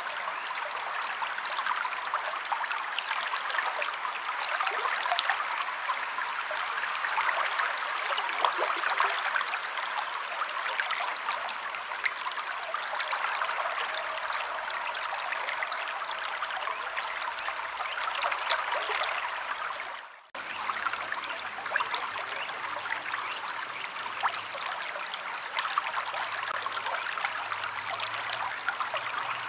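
River water flowing and rushing steadily, with faint short high bird calls every few seconds. The sound cuts out for a moment about two-thirds of the way through, then carries on.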